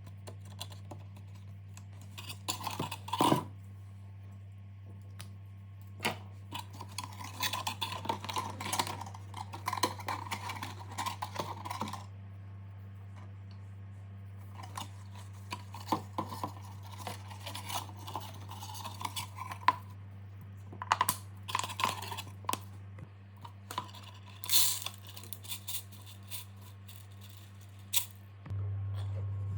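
Handling noises: irregular clicks, taps and scraping rattles of small hard objects being worked by hand, over a steady low hum. A few sharper knocks stand out, the loudest about three seconds in and again near twenty-five seconds.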